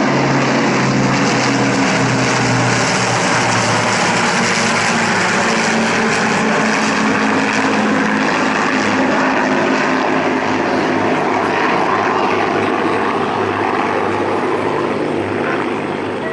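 Propeller-driven airplane flying over, a loud engine drone whose pitch drops a little a few seconds in and which eases off slightly near the end.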